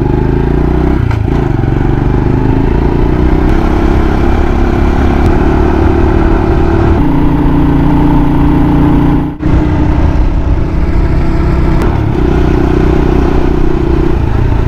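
Motorcycle engine running under way. Its note steps up and down a few times as the revs change, and the sound cuts out for an instant about nine seconds in.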